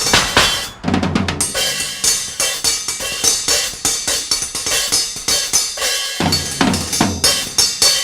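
Solo drumming on an improvised kit of drums, cymbals and metal scrap, a dense run of fast strikes with kick-drum thumps and metallic ringing. A brief break in the playing comes just before a second in, followed by a quick run of strokes.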